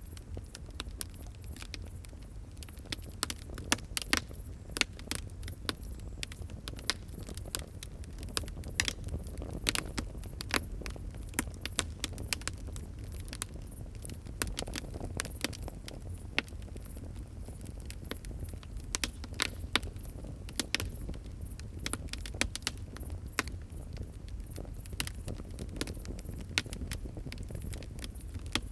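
Fire crackling: irregular sharp pops and snaps, some much louder than others, over a steady low rumble.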